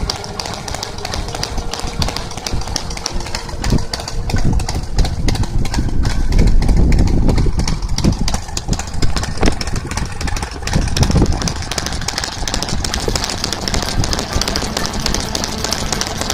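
Harley-Davidson Sportster 883 air-cooled V-twin idling through RUSH slip-on mufflers with an uneven, loping beat. It is revved up for a few seconds about a quarter of the way in, and blipped again briefly about two-thirds through.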